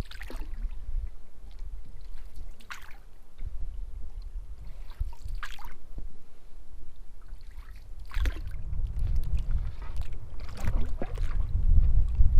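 Canoe paddle strokes, the water swishing and dripping off the blade about every two and a half seconds, over a low rumble of wind on the microphone that grows stronger in the second half.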